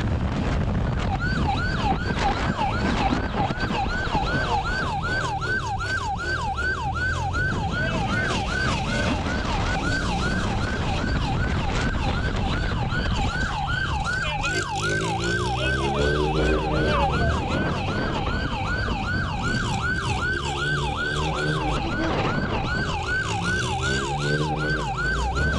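Police motorcycle siren in a fast yelp, sweeping up and down about three times a second. Under it, motorcycle engines rev and fall as the bikes accelerate and slow through the streets.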